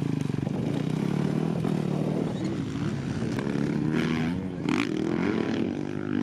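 Dirt bike engine running, its pitch rising and falling as the throttle is blipped.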